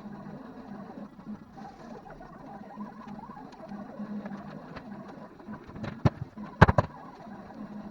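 A few sharp knocks, the loudest a quick double knock about two-thirds of the way through, over a steady low hum and faint ticking.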